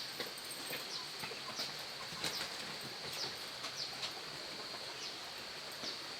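Rural outdoor background: a steady high-pitched drone with short, falling bird-like chirps repeating about twice a second and scattered faint clicks.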